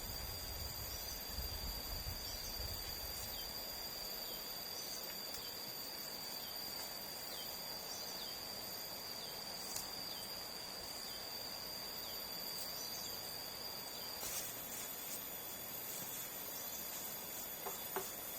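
Forest ambience of insects, crickets or cicadas, trilling in steady high unbroken tones with a few small falling chirps, over an even background hiss. A couple of faint clicks come near the end.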